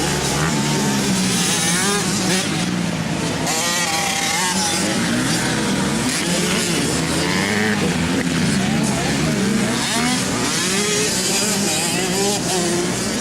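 Several motocross bike engines revving up and down as a field of riders races around the track, the pitch rising and falling as bikes accelerate, shift and pass.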